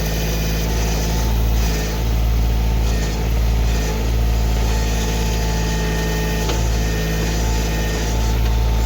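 Kioti CK2610 tractor's three-cylinder diesel engine running steadily, its level rising and falling slightly every second or so. A single brief click is heard about six and a half seconds in.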